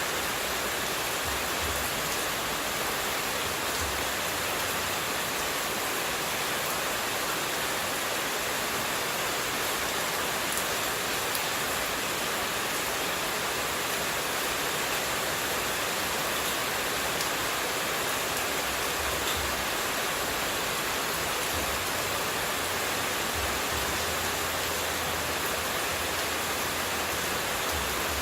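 Running water rushing steadily, an even unbroken hiss used as white noise.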